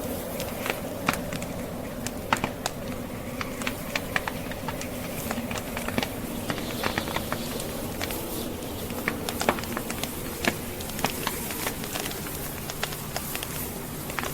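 Log fire crackling, with irregular sharp pops and snaps several times a second, over the steady rush of blizzard wind.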